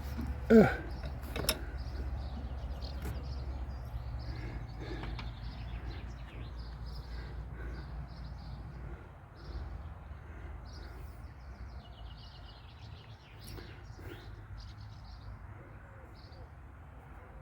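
Faint birds chirping over a steady low hum, with a few sharp clicks and a brief sound falling in pitch about half a second in.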